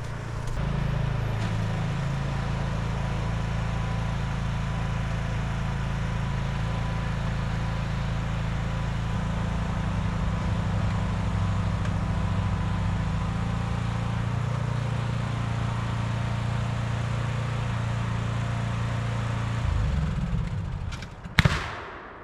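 John Deere lawn tractor's engine running steadily with its snow blower attachment, a low, even drone. Near the end the engine note changes and a single sharp bang follows.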